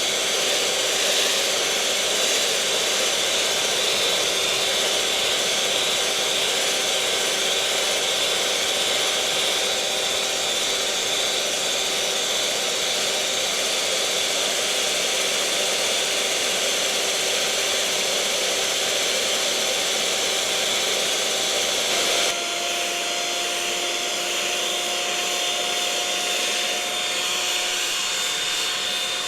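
Electric mixer motor running steadily with a hum and a whine over a hissing rush of air. About two-thirds of the way through, the pitch suddenly drops a little and the sound gets slightly quieter, then runs on steadily.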